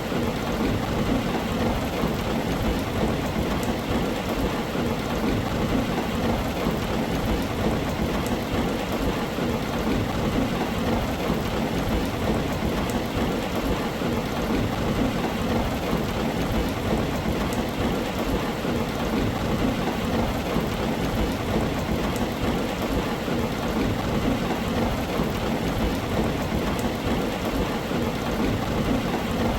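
Steady heavy rain drumming on a tin roof, an even wash of noise with a low rumble underneath and scattered drop ticks.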